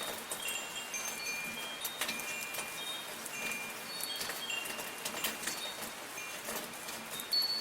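Wind chimes ringing irregularly, several high metallic tones sounding one after another and fading quickly, over a steady hiss of soft rain with scattered drop ticks.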